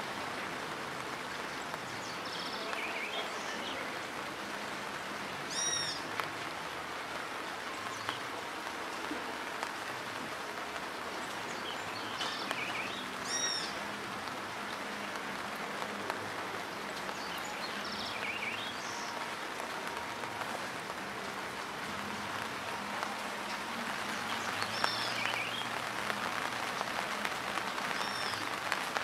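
Steady rain falling on a dirt road, with birds calling every few seconds: a short arched call repeated several times, and thinner falling calls in between. The rain gets a little heavier, with more drop patter, about five seconds before the end.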